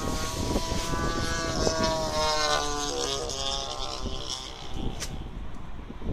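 Strong wind buffeting the microphone, with a rumble in the lows. A pitched drone sounds over it, slides lower in pitch about two and a half seconds in and fades out around four seconds, and a sharp click comes near the end.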